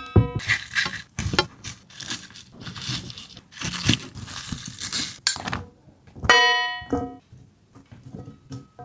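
Crinkling and tearing noises, irregular and rustly, like packaging or food being handled, followed by a short plucked musical note about six seconds in and a few sharp clicks.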